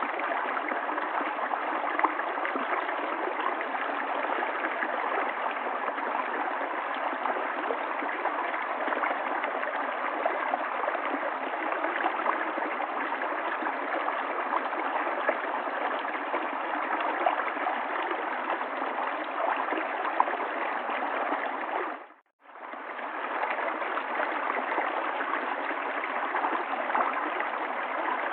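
River water flowing in a steady, even rush. About three-quarters of the way through, it fades out to near silence for a moment and comes straight back in.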